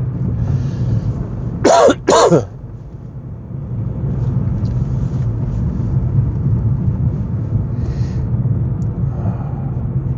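Two loud coughs in quick succession about two seconds in, over the steady low rumble of the car's cabin while driving.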